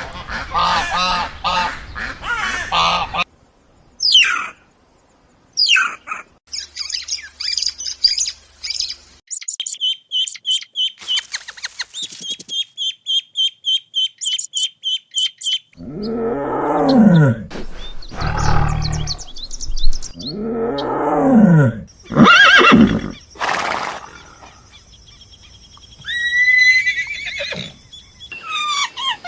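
A run of different animal and bird calls, cut one after another: quick repeated chirps in the middle, then loud calls that fall in pitch.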